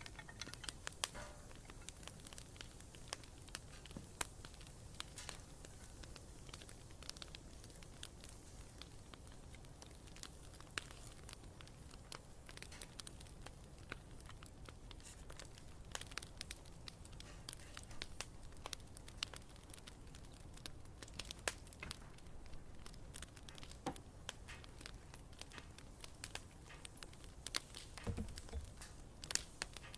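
Campfire crackling: irregular sharp pops and snaps over a low rumble of burning, with a brief low thump near the end.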